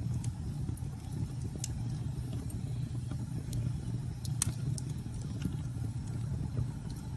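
Wood fire crackling, with scattered sharp snaps and pops over a steady low rumble; the loudest snap comes about four and a half seconds in.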